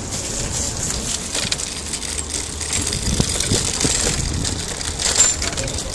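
Steady rain hissing and pattering, with a low rumble underneath and a few knocks from about three seconds in.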